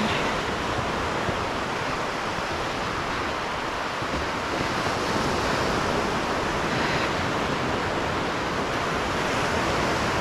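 Lake Superior surf washing onto the beach, a steady rush of waves.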